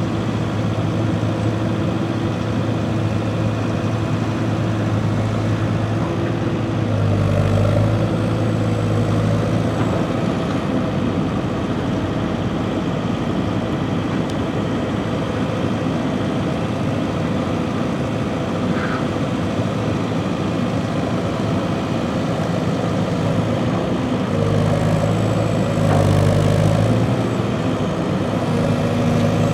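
Heavy diesel engine running steadily at low revs, picking up briefly twice, about a quarter of the way in and again near the end.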